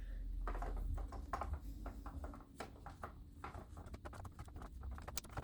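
Metal-bristled hairbrush drawn through a vintage Chatty Cathy doll's dry synthetic hair, a fast run of soft scratchy strokes as it works through tangles.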